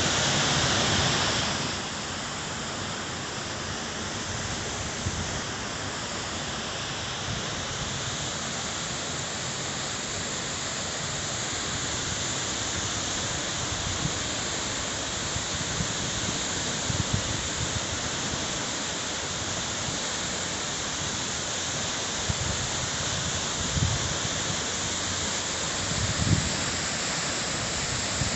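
Looking Glass Falls rushing steadily: a continuous roar of water falling into its pool, a little louder for the first second or so. There are a few low thumps near the end.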